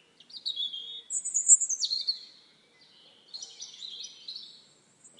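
Songbird singing in several short, high phrases, some sliding down in pitch, with brief pauses between them.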